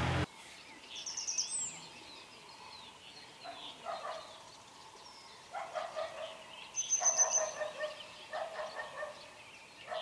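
Several birds calling. There are high thin notes about a second in and again around seven seconds, and lower repeated calls come in bursts from about three and a half seconds on. A steady hum cuts off just after the start.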